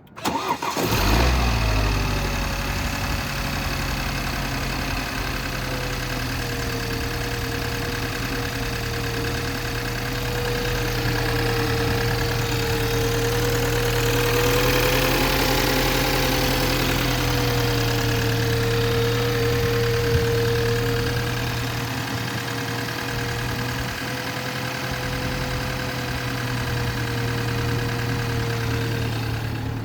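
2018 BMW X3 xDrive35i's turbocharged inline-six cold-starting: a brief crank, the engine catches and flares about a second in, then settles into a steady fast cold idle with a whine that drops slightly in pitch over the first few seconds.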